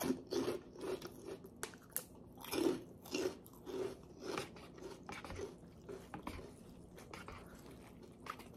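Close-miked chewing of a mouthful of food: crunching bites and wet mouth clicks, loudest and most frequent in the first half, then tapering off.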